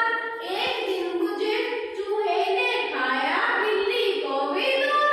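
A high voice singing a song, with notes held and phrases broken by short pauses about every second.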